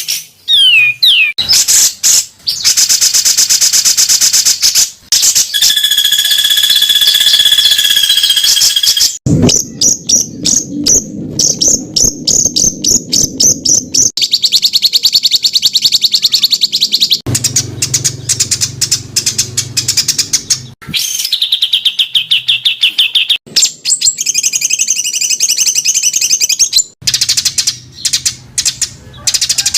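Songbird calls spliced into a tutor recording: loud, rapid-fire runs of harsh repeated notes and trills, with one held whistle about a quarter of the way in. The song type switches abruptly every few seconds.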